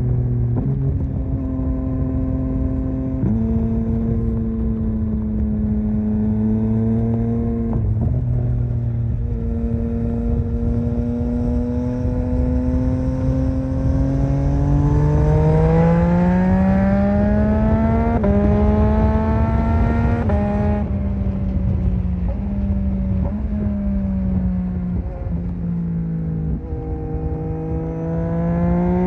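Yamaha MT-09 (2021) 890 cc inline three-cylinder engine on the move, with gear changes early on. About a third of the way in it pulls hard with the pitch rising steadily, then drops back through several downshifts, and it picks up speed again near the end.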